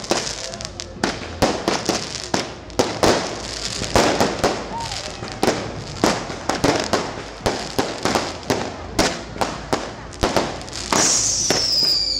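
Fireworks going off in a rapid, irregular string of bangs and crackles. Near the end a high whistle falls in pitch.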